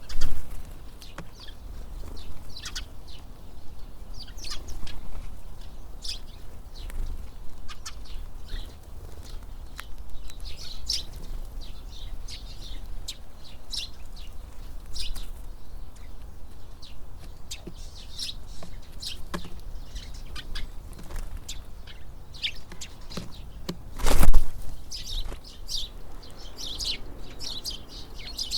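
Tits at a feeder chirping, many short high calls scattered throughout, over a low rumble of wind on the microphone. About 24 seconds in there is one brief loud burst.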